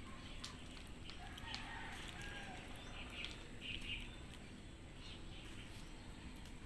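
Cats eating mixed wet and dry cat food: faint, irregular chewing and crunching clicks.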